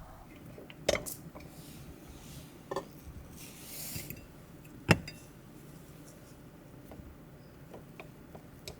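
Small objects being handled: a few separate clicks and knocks, the loudest about five seconds in, with a brief rustle a little before it and a few faint ticks near the end.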